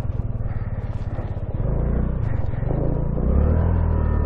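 Honda Navi's small single-cylinder engine running under the rider, getting louder about a second and a half in and again past three seconds as it picks up revs.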